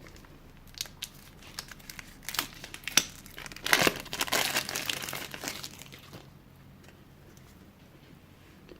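Plastic shrink-wrap being torn and crinkled off a deck of game cards: scattered crackles, then a denser stretch of tearing and crinkling about four seconds in that dies away after about six seconds.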